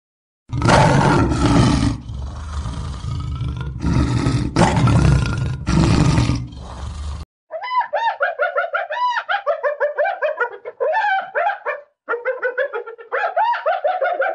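A lion roaring in a run of deep, loud roars that cut off abruptly about seven seconds in. Then a hyena gives fast, high, giggling calls, each rising and falling, several a second, with a short break near the end.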